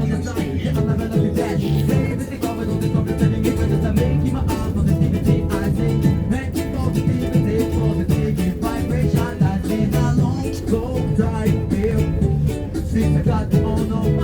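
Live street band playing a reggae-style riddim: strummed guitar and singing over a steady beat.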